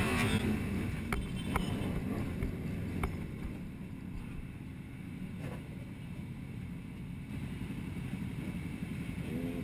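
Steady low rumble of a car driving, as picked up by a dashcam, with a few short clicks.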